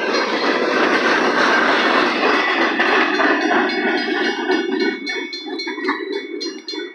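Double-stack container train rolling past, its wheels rumbling and clattering on the rails, fading about five seconds in. A grade-crossing bell keeps ringing in a steady rhythm and stands out clearly near the end.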